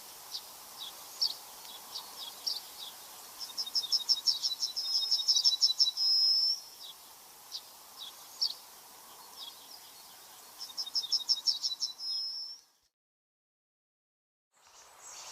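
A songbird singing a high-pitched phrase of quick repeated notes that ends in a short trill, three times, with single chirps in between. The sound cuts out to silence about 13 seconds in.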